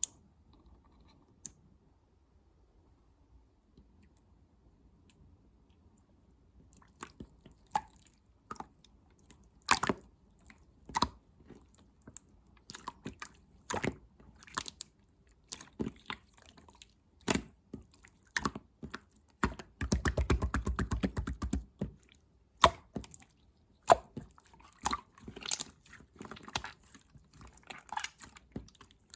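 Clear slime being pressed and worked by hand, giving sharp, wet clicking pops of trapped air; the first several seconds are nearly quiet. About twenty seconds in, a fast run of crackling pops lasts about two seconds.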